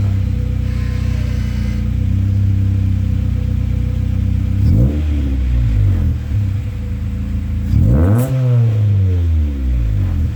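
Honda B18B 1.8-litre four-cylinder engine of a 1994 Acura Integra idling steadily on its aftermarket exhaust, without the unequal-length header, then revved twice, about halfway through and again near the end, each rev rising and falling back to idle.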